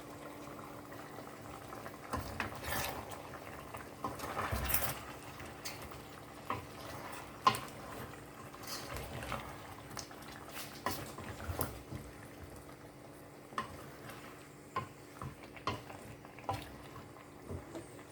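Kitchen handling sounds at a stove: scattered clinks and knocks of utensils against a pot, with a louder clatter about four seconds in, over a faint steady hum.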